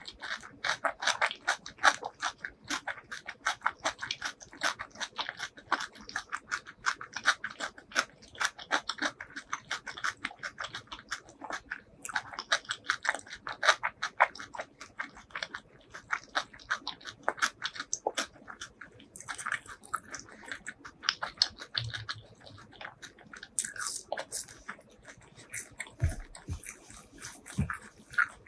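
Close-miked eating: a person chewing and crunching food in rapid, irregular mouth clicks and bites, for mukbang ASMR.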